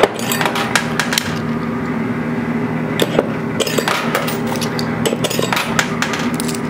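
Quarters clinking and clattering in a coin pusher arcade machine as coins drop onto the shelves and are pushed along, in irregular clusters of sharp metallic clicks over a steady low hum.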